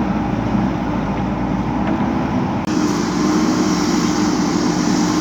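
JCB 3DX backhoe loader's diesel engine running steadily under work, with a constant hum. It steps up slightly in level about two and a half seconds in.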